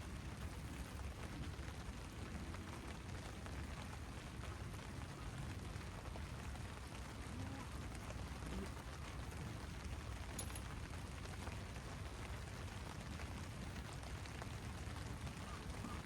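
Steady rain falling, a continuous hiss of many small drop ticks.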